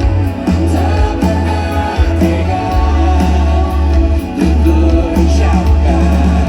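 Live pop band with heavy bass and drums, and singing over it, heard loud and boomy through a phone's microphone in a concert hall.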